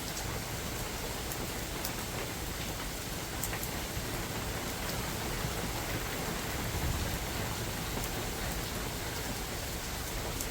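Steady spring rain falling on a mountain forest, an even hiss with a few distinct drops landing close by.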